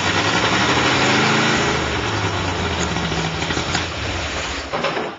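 Fuel-injected 347 small-block V8 running without an exhaust system on its first start-up, loud, its engine speed rising and then settling back. Near the end the engine stops.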